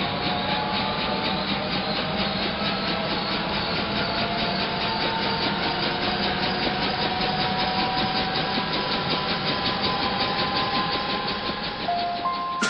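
Helicopter running, a fast even rotor beat over engine noise, with the turbine whine rising slowly in pitch.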